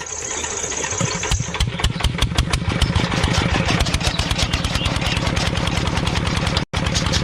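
Small engine of a miniature tractor starting up and running, its fast firing pulses quickening over the first couple of seconds and then holding steady. The sound drops out for an instant near the end.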